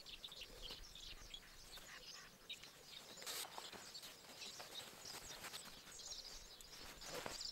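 Faint woodland birdsong: many short chirps and calls from birds in the trees.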